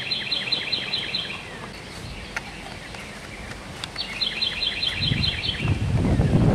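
A songbird singing two quick phrases, each a rapid run of about a dozen repeated high chirps, one at the start and another about four seconds in. A low rumble of wind on the microphone builds near the end.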